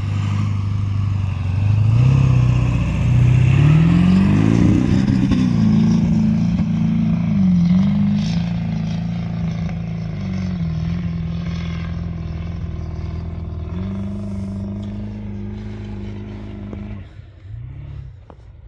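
Old Ford pickup's engine revving hard under load on a steep sand dune climb: the pitch rises over the first few seconds, holds high with a couple of brief dips, then drops away near the end with one short blip of the throttle.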